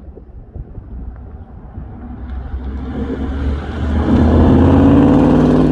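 Ford F-150's Coyote 5.0 V8 with a Borla XS Pro exhaust driving by, its engine note building from a distance and loudest near the end as the truck comes past.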